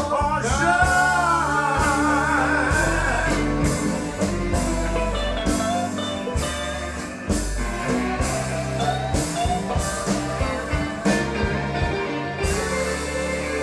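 Slow blues band music: an electric guitar lead with bent, gliding notes over bass and drums.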